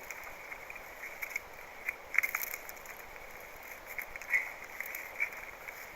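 Dry kindling and twigs being handled, giving scattered crackles and snaps, with louder cracks about two seconds in and again just past four seconds.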